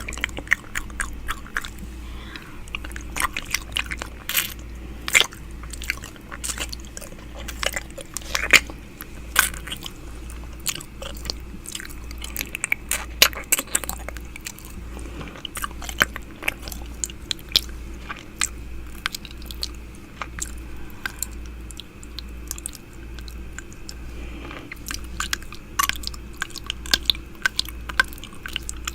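Close-up wet mouth sounds on an ear-shaped binaural microphone, ASMR 'ear eating': irregular sharp clicks and smacks of lips and tongue, many a second, with no speech.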